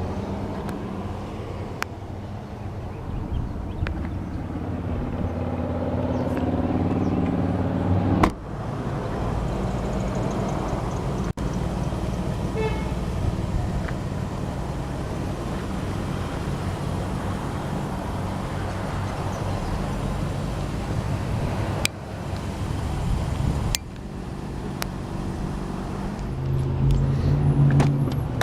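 Passing road traffic: vehicle engines rising and fading as they go by, over a steady low hum, with a few sharp knocks.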